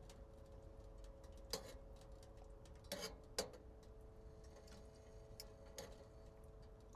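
Scattered light ticks and four sharper clicks, two of them close together about three seconds in, over a faint steady hum.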